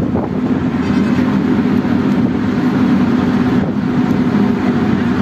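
Steady, loud engine drone with a low hum, typical of a ferry's diesel engine running under way.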